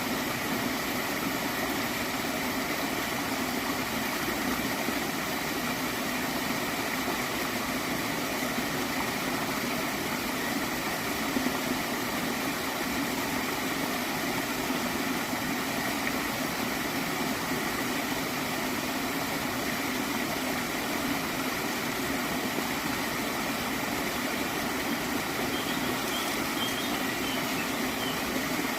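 Gently flowing stream water, gurgling steadily.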